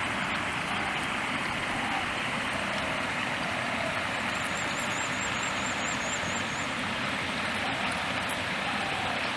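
Steady rushing of a flowing stream, an even unbroken wash of water noise, with a faint high trill about four to six seconds in.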